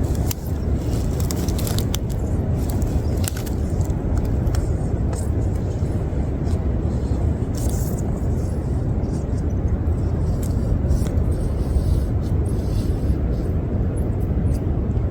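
Short-beaked echidna making its faint low purring, shivering sound, boosted by turning the recording's volume right up, so it comes through as a steady low rumble with scattered small clicks.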